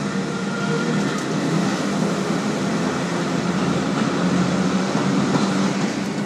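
A heritage train led by the Metropolitan Railway electric locomotive Sarah Siddons, heard from aboard as it runs through an Underground station and into a tunnel. There is a steady rumble of wheels on rails with a low hum under it, growing a little louder after about a second and a half.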